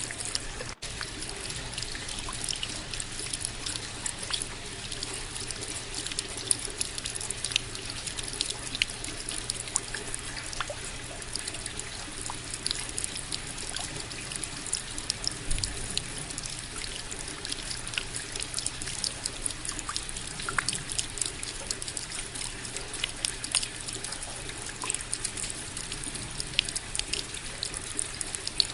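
Steady rain falling, an even hiss dotted with many sharp ticks of single drops striking close by.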